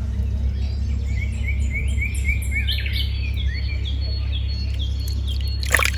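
Small birds chirping in quick runs of repeated notes over a steady low rumble, with one louder sharp call near the end.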